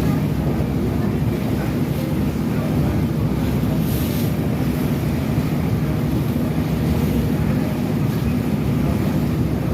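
A passenger boat's engine running steadily under way, a constant low hum, with wind buffeting the microphone.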